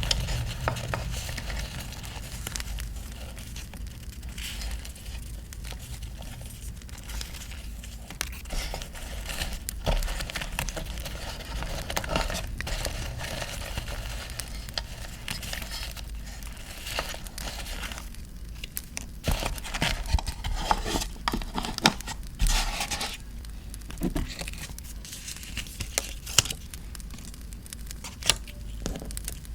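Paper being handled, crinkled and torn, with many short sharp clicks and rustles, over a steady crackling campfire sound.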